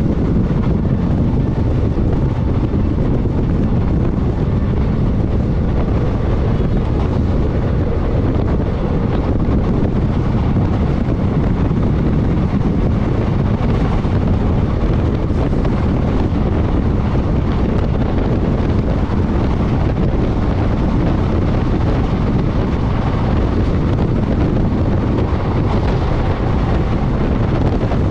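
Steady rush of wind and running noise heard from the open door of a moving passenger coach, with wind buffeting the microphone.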